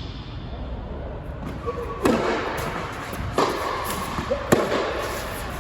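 Tennis ball struck by racquets in a rally: three sharp hits about a second apart, the last the loudest, each with a short ring.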